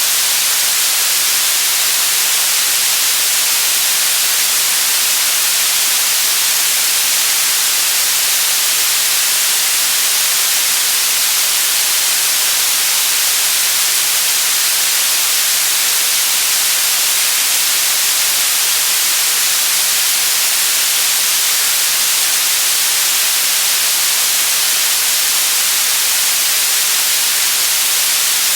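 Steady white noise: an even, unbroken hiss, brightest in the treble, that never changes in level.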